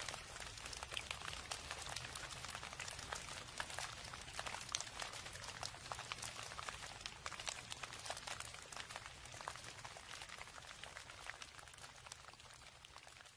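Steady rain falling: a dense patter of many separate drops over a low rumble, growing fainter near the end.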